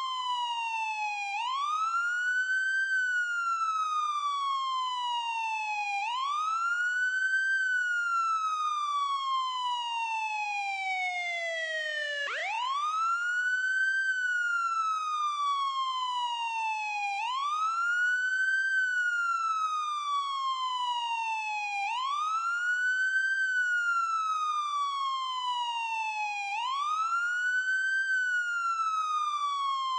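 Ambulance siren on a wail: the pitch rises quickly, then falls slowly, repeating about every four and a half seconds. About twelve seconds in, one longer fall drops lower before the pitch snaps back up.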